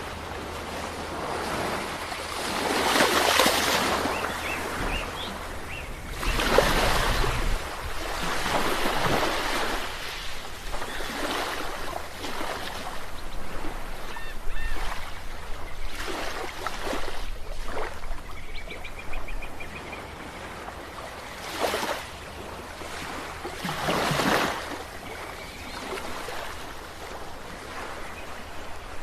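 Sea waves breaking on a shore, one after another, each swelling up as a rush of water and washing back.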